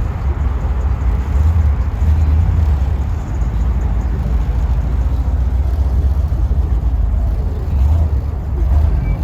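Car engine running nearby, a steady low rumble that swells a little twice.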